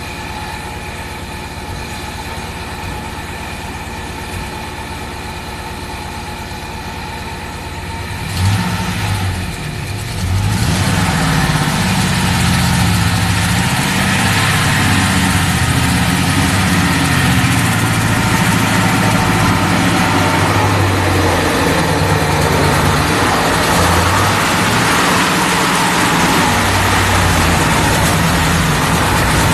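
Vehicle engine. A steady hum for the first eight seconds, then it gets suddenly louder and runs with a low note that wavers up and down.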